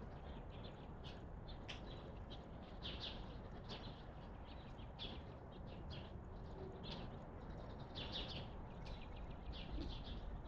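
Small wild birds chirping: a steady run of short, high chirps, several a second, over a low background rumble.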